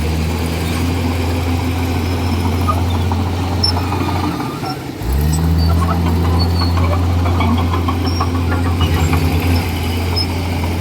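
Komatsu D41E bulldozer's diesel engine running at a steady pitch. About four seconds in, the engine sound briefly drops away, then comes back at the same steady note, with light metallic clicking over the next few seconds.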